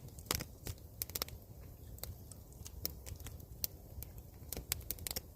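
Wood campfire crackling with irregular sharp pops and snaps.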